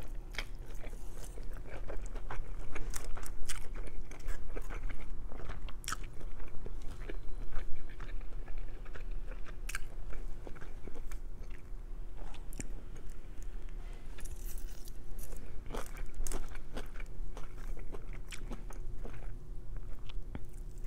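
Close-miked chewing and mouth sounds of a person eating a mouthful of chow mein noodles, with many small clicks scattered throughout over a faint steady hum.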